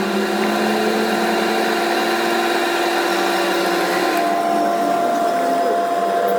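An electric power tool's motor running steadily, a hum with several steady tones over hiss. About four seconds in the hiss thins and a new steady tone comes in, as if the tool's load or speed changes.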